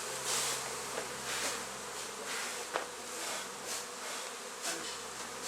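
Honey bees buzzing steadily around a nuc box as the colony makes its way inside after its combs were transferred.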